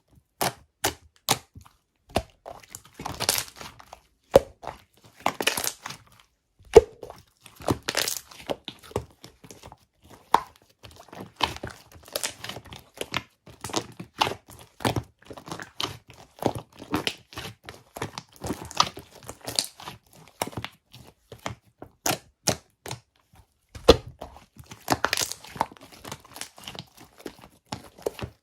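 Slime with air worked into it being squeezed and pulled close to the microphone, giving an irregular run of sharp pops, clicks and crinkly crackles as the trapped air bursts, with brief pauses about a quarter of the way in and again near the end.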